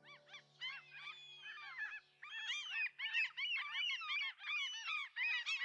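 A flock of geese honking: many short, arched calls overlapping one another, getting louder and denser about two seconds in.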